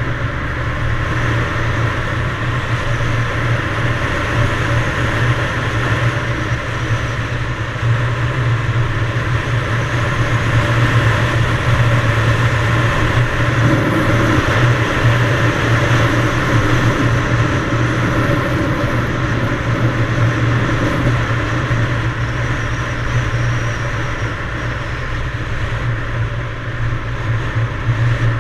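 Yamaha DT175 two-stroke single-cylinder dirt bike engine running steadily under way.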